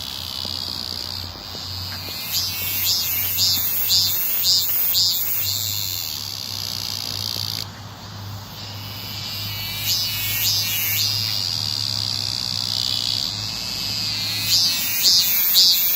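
Cicadas singing: a steady high buzz, broken by runs of evenly repeated pulsing calls, about two a second, a couple of seconds in, around ten seconds in, and near the end.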